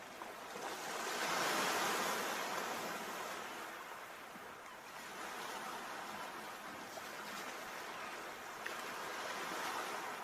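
Sea waves washing in: a steady rush of surf that swells loudest about a second or two in as a wave breaks, eases, and builds again near the end.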